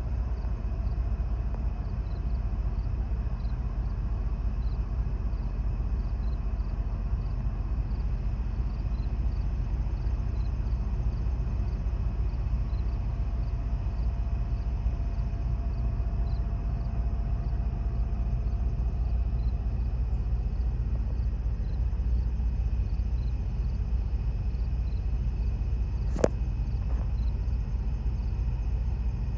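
Steady low rumble of outdoor night ambience. A faint thin hum fades out about two-thirds of the way through, faint high chirps repeat at a slow, even pace, and there is one sharp click near the end.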